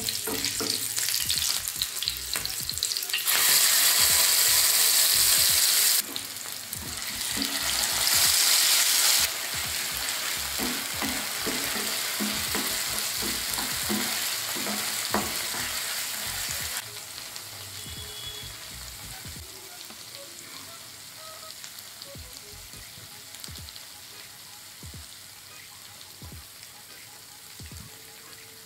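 Green chillies and then a ground green masala paste sizzling in hot oil in a non-stick frying pan, stirred and scraped with a spatula that gives short knocks. The sizzle surges loudly twice within the first ten seconds, then settles and fades over the second half.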